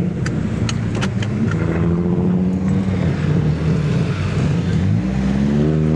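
Car engine running, its pitch sagging and then climbing near the end as it accelerates. A few sharp clicks land in the first second and a half.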